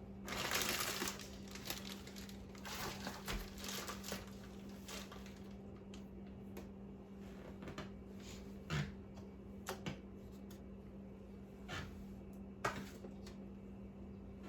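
Kitchen handling sounds: a short rustle of dry birdseed shifting in plastic containers, more rustling a couple of seconds in, then scattered light knocks and clicks as containers and utensils are handled, over a low steady hum.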